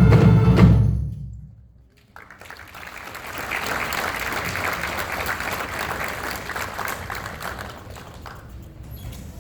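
A marching band with drums ends a piece on a held chord that dies away about a second in. After a moment of silence the audience applauds, the applause fading near the end.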